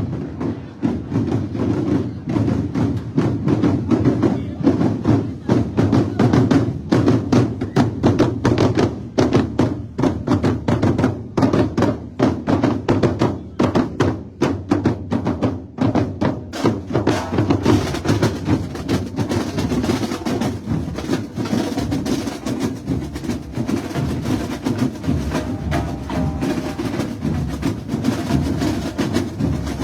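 Percussion-led carnival music with drums struck in a quick, steady rhythm. A little over halfway through, the sound fills out and grows busier.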